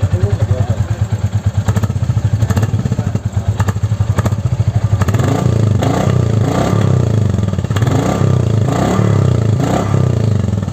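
Royal Enfield Classic 350 Reborn's single-cylinder engine running through its stock silencer, idling with an even thumping beat. From about five seconds in the throttle is blipped again and again, the revs rising and falling a little more than once a second.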